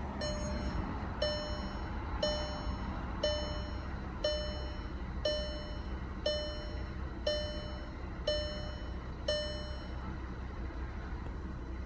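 The car's warning chime dings ten times, about once a second, and stops near the end, over the low steady drone of the 2013 Jetta TDI's 2.0-litre four-cylinder turbodiesel. The engine is idling rough, enough to make the car jerk.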